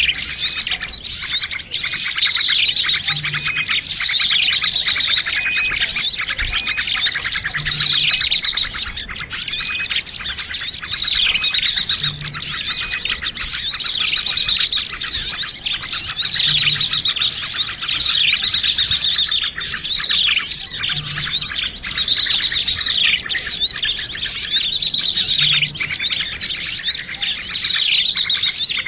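Dense, unbroken chorus of many small songbirds chirping and twittering at once: high-pitched overlapping trills and quick falling notes. This is a bird-lure (pikat) recording of noisy small birds, used to draw wild birds in.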